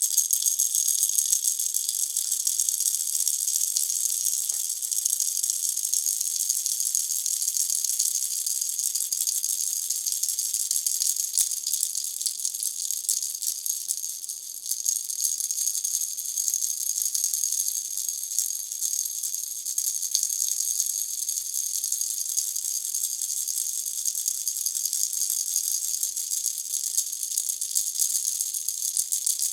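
Pineapple-shaped baby rattle shaken continuously, a dense high-pitched rattling that dips briefly about halfway through.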